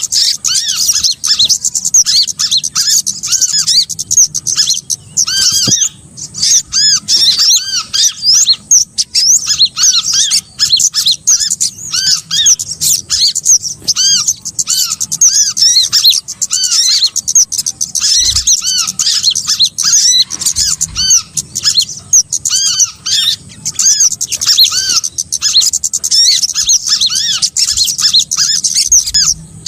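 Bird-lure recording of small birds calling: a dense, continuous chatter of rapid, overlapping high chirps, several notes a second. It is used to draw small songbirds in for trapping.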